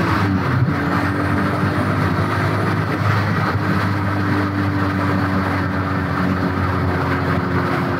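Turbocharged VR6 in a Mk3 VW Golf under hard acceleration at low base boost, heard from inside the cabin with road and wind noise. The engine drops in pitch near the start and then pulls steadily on.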